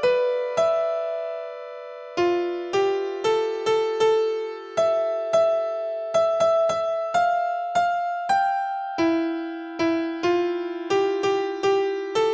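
Gentle background music: a soft electric piano playing a slow melody of single struck notes that ring and fade.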